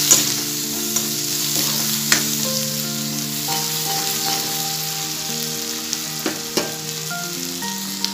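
Onions, ginger-garlic paste and freshly added ground spices sizzling in hot oil in a karahi while a metal spoon stirs them. The frying hiss is steady, with a few sharp clicks of the spoon against the pan.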